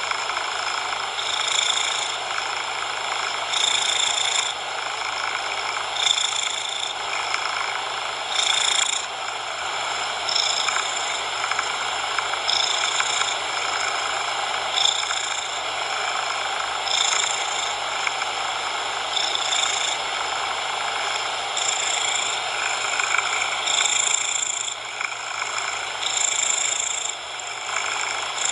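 A cat purring, swelling about every two seconds with each breath, mixed with a steady hiss of coloured noise.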